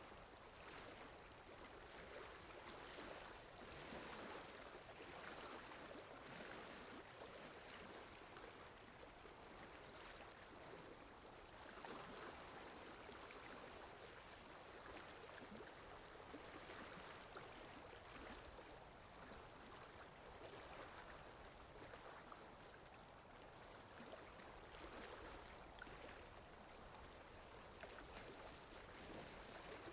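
Steady rain falling, a faint even hiss with fine scattered drop ticks that swells and eases slightly.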